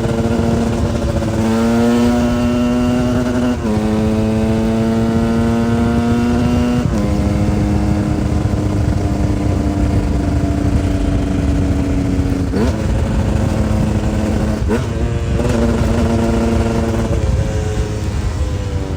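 2011 KTM 125 EXC's two-stroke single-cylinder engine riding under way, revving and dropping in pitch at each gear change. It holds one steady pitch for several seconds before changing gear again a few more times.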